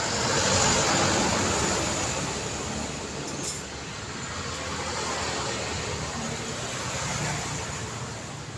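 Daytime road traffic: vehicles passing, with a swell of tyre and engine noise in the first couple of seconds that fades. A brief click comes about three and a half seconds in.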